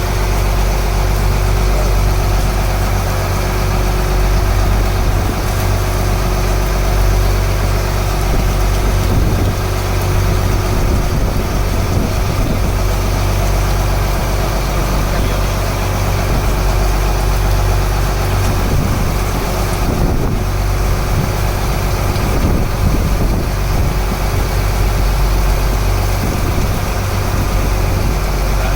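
A wooden fishing boat's inboard engine running steadily at low revs, under an even hiss of rain.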